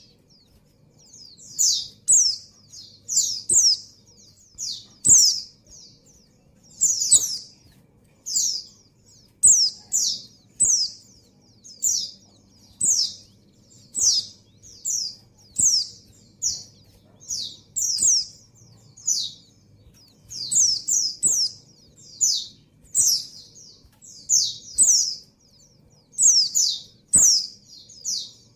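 Female white-eye (pleci) in breeding condition calling for a male: short, high, downward-sweeping calls about once a second, often in quick pairs or threes.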